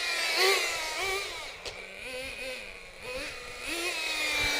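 Small .18 nitro engine of an FTX Banzai RC drift car revving up and down, its pitch rising and falling several times as the throttle is worked. The 2-speed gearbox is not shifting, which the owner puts down to a grub screw set too tight, so the engine stays in first gear.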